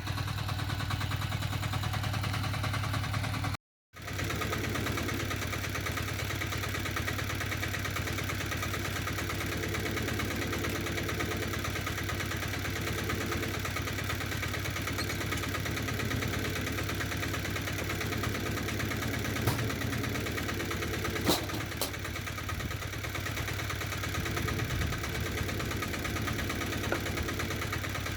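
Diesel two-wheel tractor (motocultor) engine running steadily, with a couple of sharp clicks about two-thirds of the way through.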